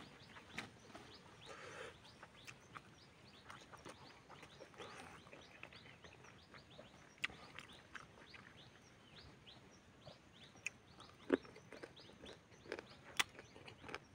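Quiet close-up eating sounds: wet chewing, lip smacks and mouth clicks from a mouthful of rice and spicy chicken eaten by hand, scattered irregularly, with a few sharper clicks in the second half.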